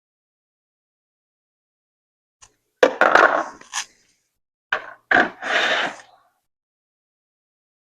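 Objects being handled and moved: two short bursts of knocking and scraping, about three seconds in and again about five seconds in, each starting with a sharp knock.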